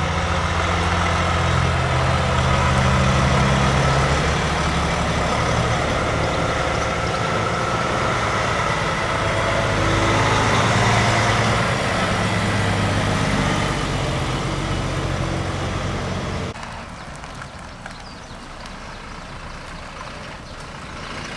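Heavy truck diesel engines running close by, their low note stepping up and down. About sixteen seconds in the sound drops off abruptly to a quieter traffic background.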